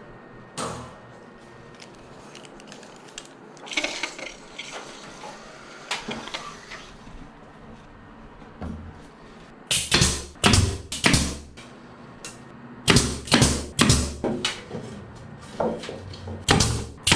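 Sharp knocks on wood during the fitting of hinoki louver boards, with a few single knocks and some scraping first, then from about ten seconds in a run of loud knocks in quick irregular groups.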